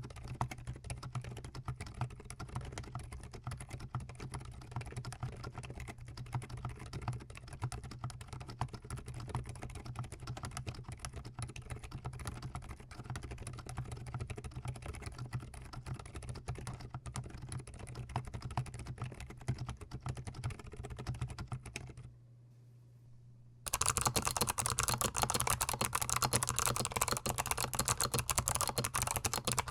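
Fast continuous typing on a GMMK Pro mechanical keyboard, a dense run of key clacks picked up very close. It breaks off for about a second and a half near the end, then resumes noticeably louder.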